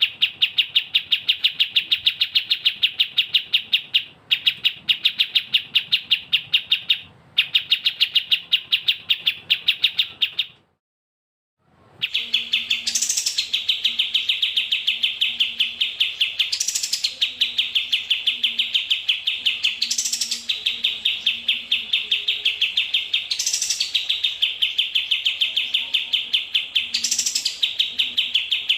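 Looped songbird recording for training cage birds: rapid, evenly repeated high chirps, about five a second. The chirping stops dead for about a second and a half a little over ten seconds in, then resumes with a harsher burst about every three and a half seconds.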